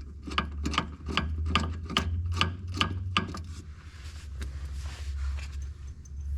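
About eight quick, evenly spaced scraping strokes, roughly two and a half a second, over a steady low hum; the strokes stop about three seconds in and the hum carries on.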